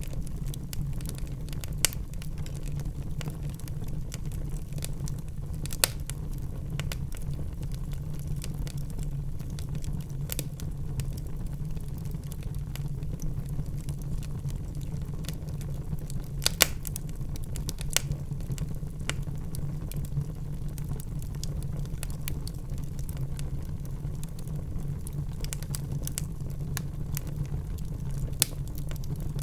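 Wood fire in a fireplace crackling: irregular snaps and clicks over a steady low rumble, with a few sharper, louder pops scattered through.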